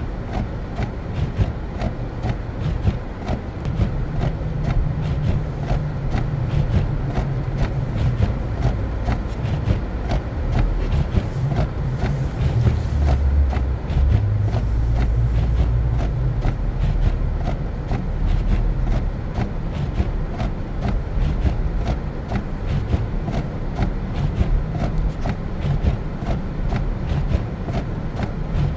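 A car driving on a snow-covered road: a steady low rumble of engine and tyres, with a constant fine crackle of the tyres on snow.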